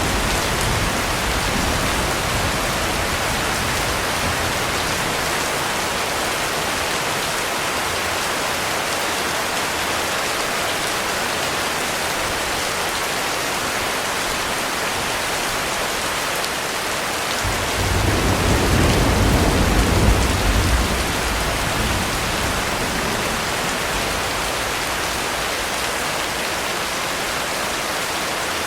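Heavy rain falling steadily. A low roll of thunder rumbles for about four seconds, two-thirds of the way through.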